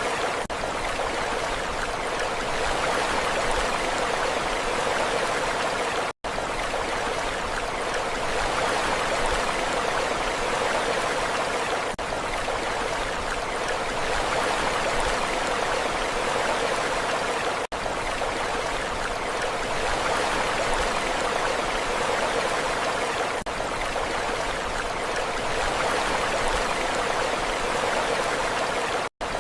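Steady rushing water, an even hiss with no rise and fall of waves, cut to silence for a split second three times.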